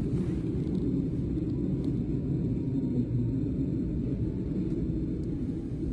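S-Bahn commuter train running on the rails, a steady low rumble heard from inside the passenger car, with a few faint ticks.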